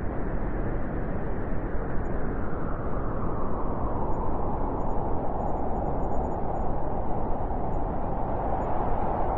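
Wind blowing steadily, a low rushing that swells a little brighter in the second half.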